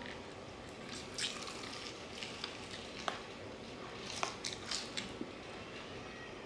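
Close-up eating of crispy fried chicken: crunching bites, chewing and wet mouth smacks heard as scattered sharp clicks, busiest about a second in and again around four to five seconds in.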